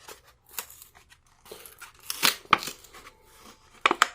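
Hot Wheels blister packs being handled and opened: plastic and cardboard crinkling and tearing, with irregular sharp clicks.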